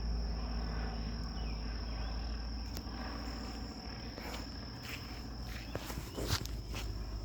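Footsteps on a trail with a few sharp handling knocks, the strongest about six seconds in, over insects calling with a steady high-pitched tone and a low wind rumble.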